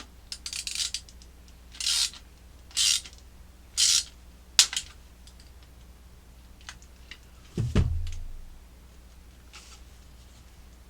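A wrench tightening the mounting nut of a quartz clock movement against a 3D-printed plastic clock face: four short rasping strokes and a sharp click, then about three-quarters of the way through a single low pop from the assembly under strain.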